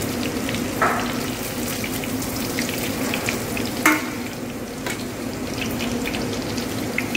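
Breaded fish cutlets sizzling and crackling as they fry in hot oil in a steel pan, while a metal slotted spoon lifts them out. Two sharper metal clinks, about a second in and just before four seconds, over a steady low hum.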